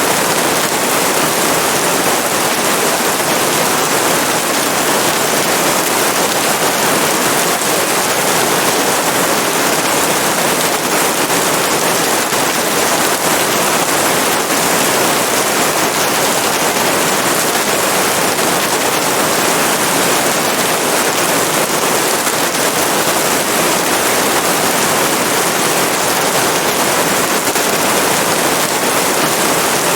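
Steady rain, an even dense hiss that holds at one level throughout.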